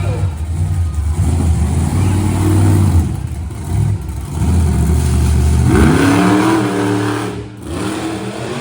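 Monster truck engine running loud with a deep, uneven note, the revs climbing sharply about six seconds in, then easing off near the end.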